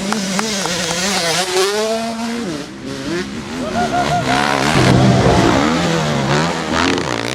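Several motocross bikes racing, their engines revving up and down with overlapping rising and falling pitch, loudest about five seconds in.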